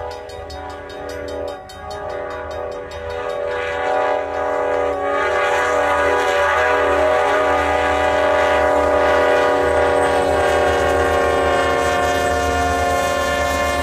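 Train horn sounding one long, steady blast that grows louder about four seconds in, over the low rumble of the passing train.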